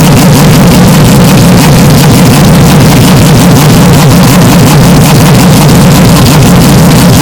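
Race car engine noise, heavily distorted and clipped at full volume. It stays steady with a strong low hum and never rises or falls.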